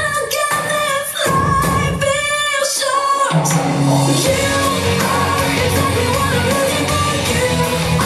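Recorded pop song with singing, played loud for a dance routine. The sung line stops about three seconds in and the backing music carries on with a low bass line.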